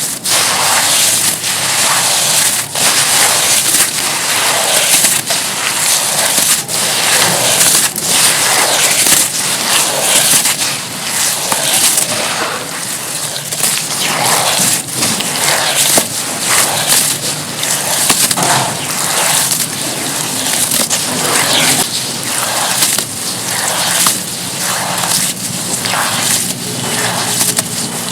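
Pure charcoal being crushed and crumbled in water: a dense, continuous crisp crackling and crunching, full of sharp snaps.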